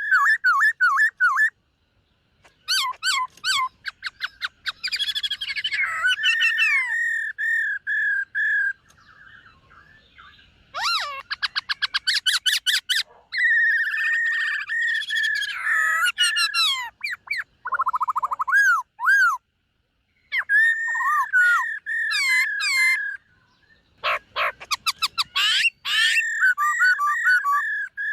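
Black-throated laughingthrush singing: loud, varied whistled phrases built around one repeated note, mixed with fast rattling trills, coming in bursts separated by short pauses.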